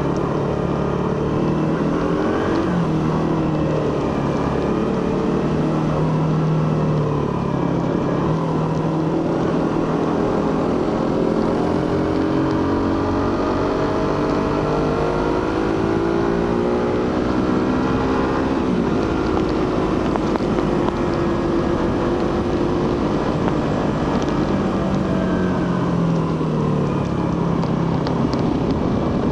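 Suzuki GSX-R150's single-cylinder 150cc engine running through its stock exhaust while riding. The revs climb steadily for several seconds, drop abruptly a little past halfway, then rise and fall more gently.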